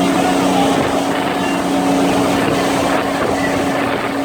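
Motorboat engine running steadily underway, holding one constant pitch over a rush of noise.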